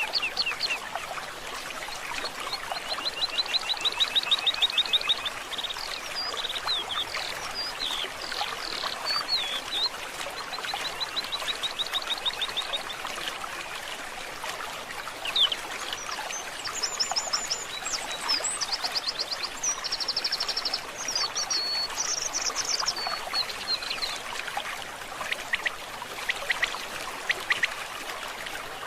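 Several birds singing over a steady babbling stream: repeated fast trills and whistled phrases, with higher, quicker songs in the second half.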